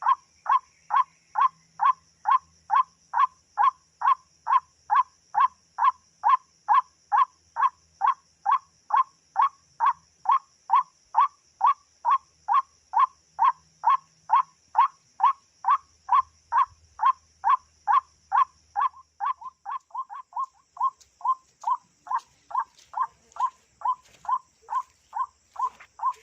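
White-breasted waterhen (ruak-ruak) calls: a loud single-note call repeated evenly a little over twice a second, turning quicker and softer for a few seconds past the middle, over a steady high insect-like hiss.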